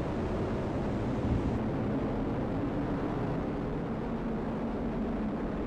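Atlas V rocket engines firing during liftoff and early ascent: a steady, dense rumble.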